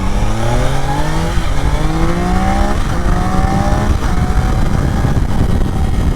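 2024 Triumph Daytona 660's inline three-cylinder engine accelerating hard up to about 70 mph. Its pitch climbs in three pulls with quick upshifts about one and a half and three seconds in, then holds steady. Heavy wind rush on the helmet microphone runs underneath.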